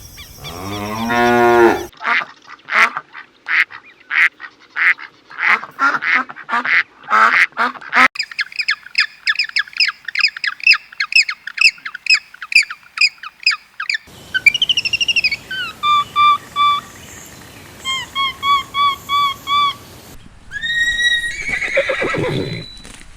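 Farm birds calling in a run of short spliced clips: quacking and honking in the manner of ducks and geese, a fast string of short high calls, and repeated arched calls. A cow's moo ends about two seconds in.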